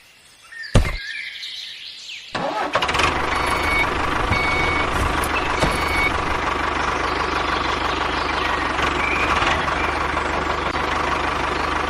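A click, then about two seconds in a tractor engine sound starts and runs steadily.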